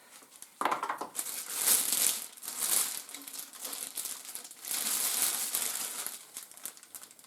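Packaging crinkling and rustling as it is handled, in several irregular bursts, while a boxed bird feeder is unpacked.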